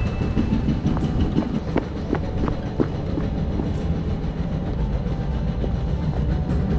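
Steady low rumble of outdoor machine noise with a run of sharp clicks and knocks between about one and three seconds in, like a rail vehicle passing.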